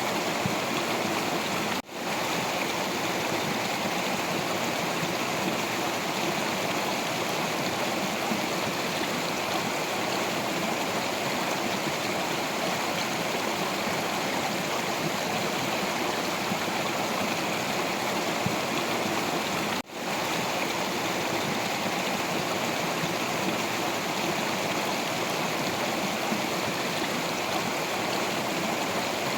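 Stream water rushing and splashing over rocks in a steady, continuous flow. It drops out for an instant twice, once near the start and once about two-thirds of the way through.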